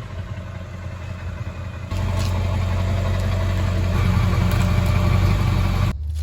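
Vehicle engine and road noise from a moving truck: a steady low rumble that gets louder about two seconds in and cuts off suddenly near the end.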